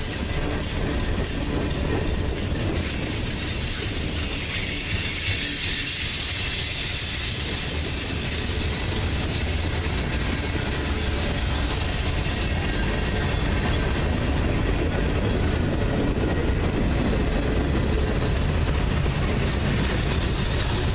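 Freight train cars rolling past, steel wheels clicking and rumbling steadily over the rails.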